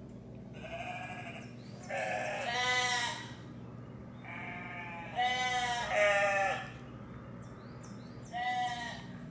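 Recorded sheep bleating played back from a video: about six wavering bleats, some in quick pairs, with a faint steady low hum underneath.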